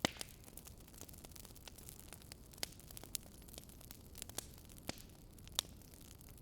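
Wood fire crackling: irregular sharp pops and snaps over a steady low hiss, the loudest pop right at the start.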